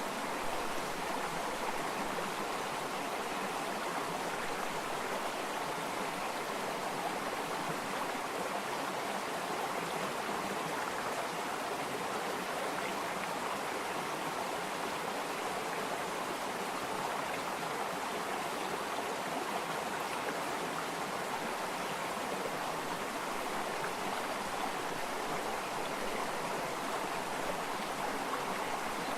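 Flowing stream water, a steady rushing babble with no change.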